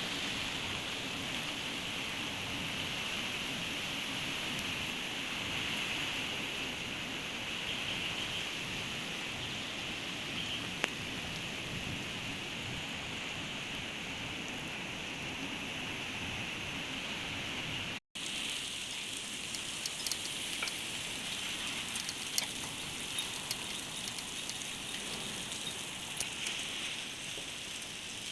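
Steady rain falling, a continuous hiss. After a short break about two-thirds of the way through, the hiss is quieter and scattered drops tick sharply on nearby surfaces.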